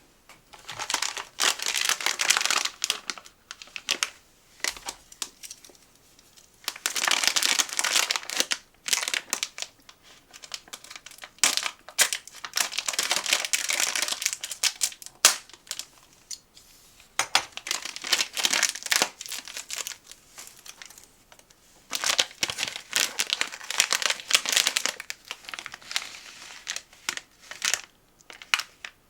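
Snack packaging being crinkled and rustled in the hands, in five spells of a few seconds each with lighter crackles and clicks between them.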